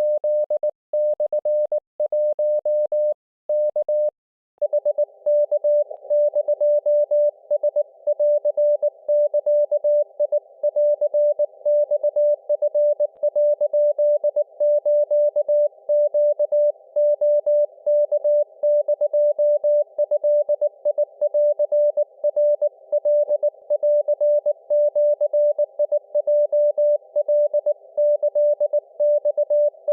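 Morse code (CW) tone at about 600 Hz from an Icom IC-705 transceiver in a 7 MHz Japanese-Morse (wabun) chat. For the first four seconds it is cleanly keyed with silent gaps; from about five seconds in it runs as fast, unbroken keying over a hiss of band noise, as a station is received.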